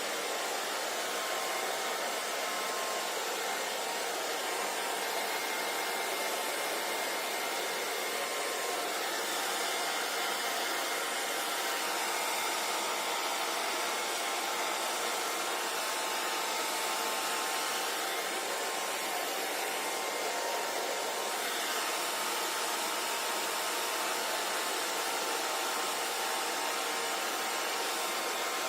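Hand-held hair dryer running continuously: a steady airy rush with a faint motor whine, unchanging throughout.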